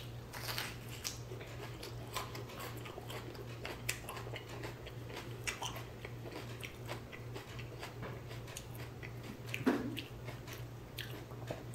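A person chewing a bite of raw, thick-walled Stocky Golden Roaster sweet pepper: faint, scattered crunches and wet mouth sounds. A steady low hum runs underneath.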